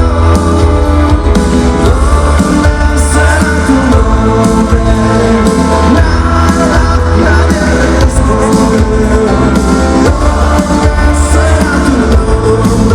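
Rock band playing a song live, with a lead vocal over electric guitars, bass and drums.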